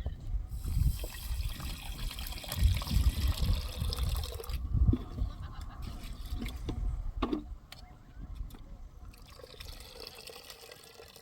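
Water splashing in two bouts, the first longer and louder, with heavy low rumble on the microphone.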